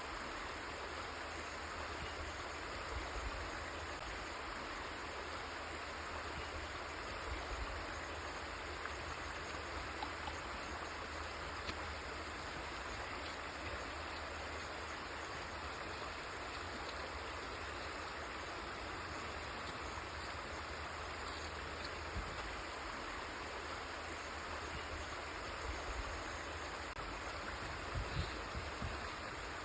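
River water flowing steadily: a continuous even rush of a stream, with a few brief low bumps, most of them near the end.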